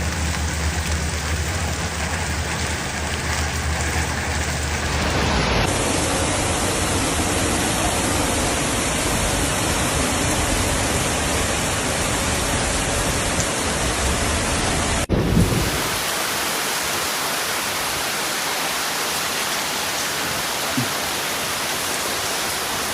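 Torrential rain and rushing floodwater: a steady, loud rushing noise that changes abruptly about six and fifteen seconds in as the footage cuts between clips.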